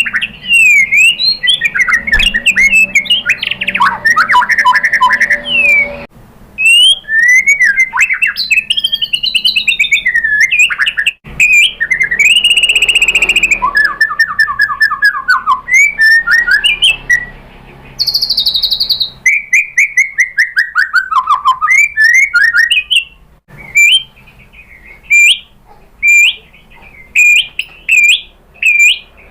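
White-rumped shama (murai batu) singing loudly and at length: a varied run of whistled slurs, trills and rapid note strings. It ends in a series of short, sharp upslurred notes about two a second.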